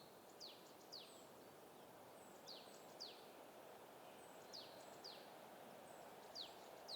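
Faint songbird calls: pairs of quick, high notes sliding down in pitch, repeated about every two seconds over a soft steady hiss of forest ambience.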